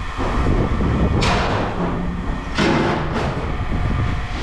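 Two short clattering crashes, about a second and a half apart, from scrap being handled, over a steady low machine rumble.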